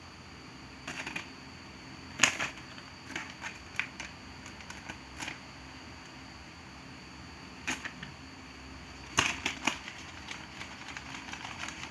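Scattered light clicks and taps, singly and in short clusters, with two louder knocks about two seconds in and about nine seconds in, over a faint steady high-pitched tone.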